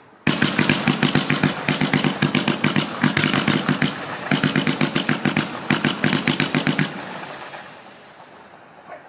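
155-shot fireworks cake (0.8, 1 and 1.2 inch tubes) firing its shots in rapid succession, grouped in quick volleys with short breaks. It starts abruptly just after the beginning, and the sound dies away over the last two seconds.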